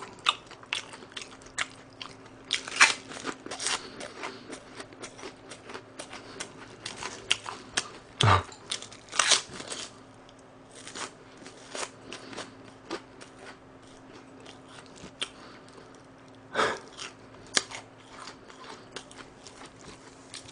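Close-miked eating: crunchy bites and chewing, with sharp crackling crunches scattered throughout and a few louder ones about 3, 8 and 17 seconds in.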